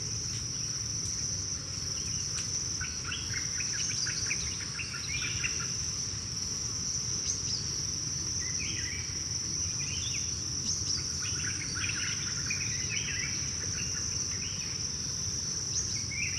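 Rainforest ambience: a steady, high insect drone, with short bird chirps and calls that come in clusters and fade again.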